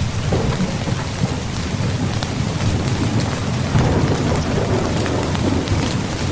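Steady rain falling on a tent, with many small drop ticks over a continuous low thunder rumble.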